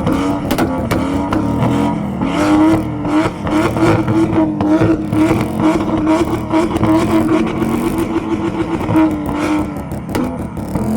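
Performance car engine and exhaust held at high, fairly steady revs: the pitch climbs a little about two seconds in, holds, and drops back near the end. Frequent sharp crackles run through it.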